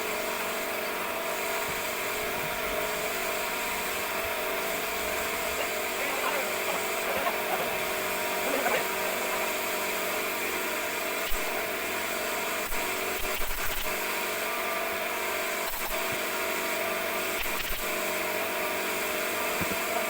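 A steady machine hum with several steady tones in it, and a few sharp knocks or clicks in the second half.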